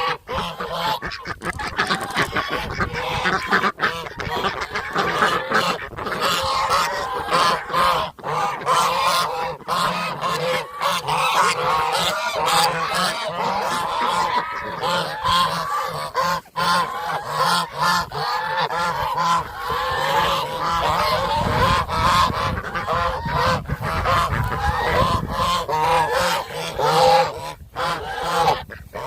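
A flock of domestic geese honking together, a dense, overlapping chorus of calls with no break.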